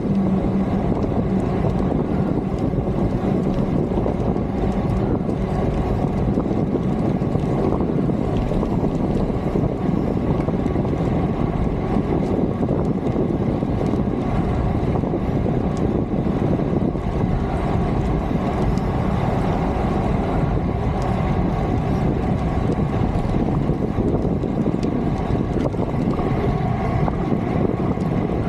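Steady wind noise on the microphone of a camera riding on a moving bicycle, mixed with road noise, with a brief low hum in the first second.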